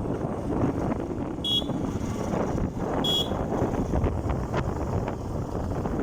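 Wind buffeting the microphone on a moving motorcycle, a loud rough rush with no clear engine note. Two short high beeps sound about a second and a half apart.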